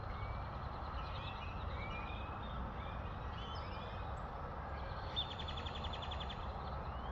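Small songbirds chirping around feeders with many short rising chirps, and a fast trill of rapid, evenly spaced notes about five seconds in. A steady low background rumble runs underneath.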